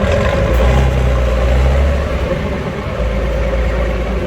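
Heavy truck engine running with a steady low drone, swelling in revs for about a second and a half shortly after the start.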